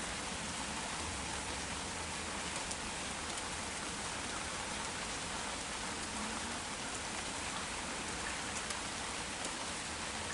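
Heavy rain shower falling steadily, an even hiss with scattered ticks of individual drops.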